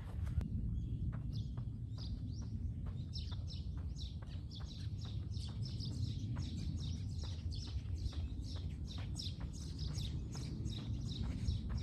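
Small birds chirping in quick repeated short notes that start about two seconds in, over a steady low rumble of background noise.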